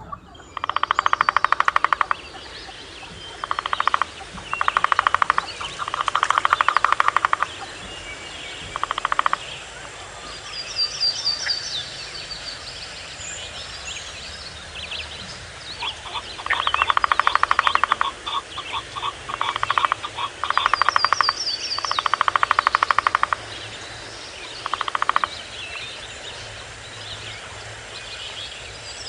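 Forest animal calls: loud trills of very rapid pulses in bursts of one to two seconds, repeated over and over, with a small bird's song of quick, high, falling notes heard three times, over a steady low background hiss.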